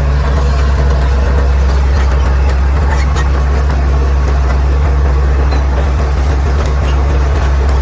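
Caterpillar D6R XL bulldozer's diesel engine running steadily, a deep, even hum with a few faint clanks over it.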